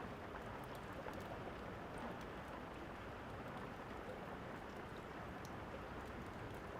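Steady rain falling, with a few sharp crackles of a wood fire scattered over it.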